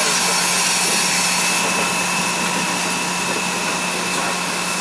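A railway diesel engine running steadily, with a constant low hum under an even rush of noise.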